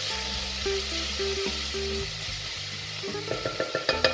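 Sofrito of diced onion, peppers and garlic sizzling in oil in a pot and being stirred with a wooden spatula. Near the end comes a quick run of scraping strokes against the pot. Background music plays underneath.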